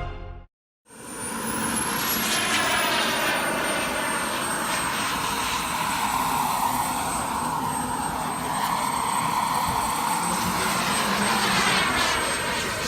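Turbine-powered radio-control model jet in flight: a steady jet rush with a high turbine whine that rises and then settles, starting after a brief silence.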